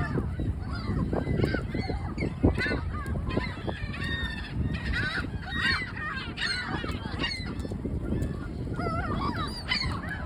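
A flock of gulls calling, many short, overlapping squawks throughout, over a steady low rumble.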